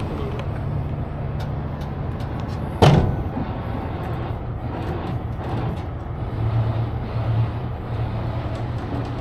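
Heavy truck engine idling steadily, with one sharp, loud knock about three seconds in.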